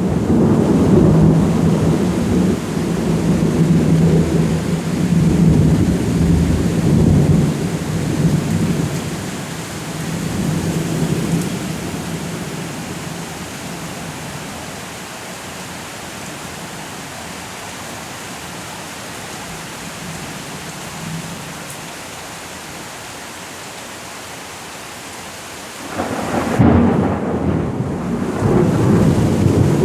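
Thunder rumbling over steady rain. The rumble dies away after about ten seconds, leaving the rain's even hiss, and a new peal of thunder breaks in suddenly near the end.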